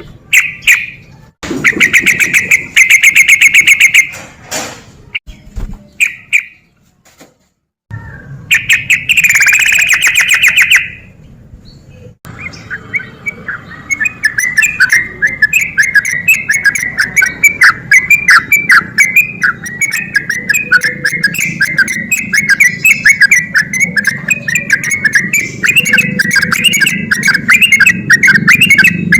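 Yellow-vented bulbul (trucukan) singing loudly. There are a few separate ringing phrases in the first ten seconds or so, then from about twelve seconds a long, fast, unbroken run of chattering notes.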